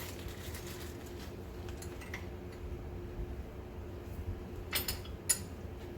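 A few light metallic clicks and clinks from hand tools and parts at the new ball joint, with two sharper ones near the end, over a steady low hum.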